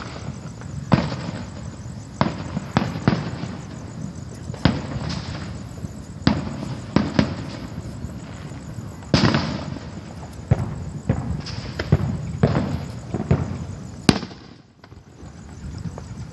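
Fireworks exploding: a string of sharp bangs at uneven intervals, roughly one a second, each followed by a short echo.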